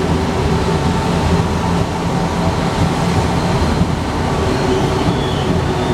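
Alstom NS-93 metro train running, a loud steady rumble with faint whining tones over it; a higher-pitched whine comes in near the end.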